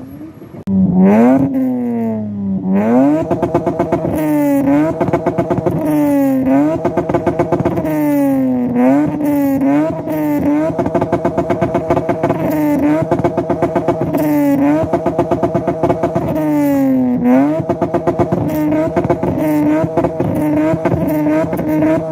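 An engine revved hard over and over, starting about a second in. Each time the revs sweep up and are held high with a fast, stuttering pulse, then drop back before climbing again.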